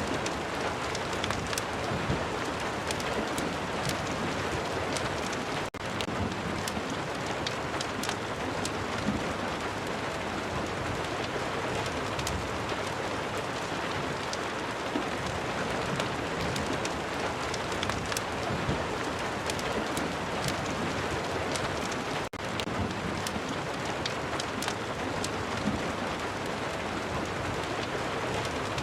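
Steady rain mixed with a crackling wood fire: an even hiss with many sharp crackles scattered through it. The sound dips for an instant twice.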